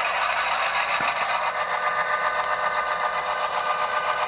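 Sound-equipped Santa Fe F7-A model diesel locomotive running on its track: a steady diesel-engine sound from its sound unit mixed with motor and wheel noise, pulsing fast and evenly.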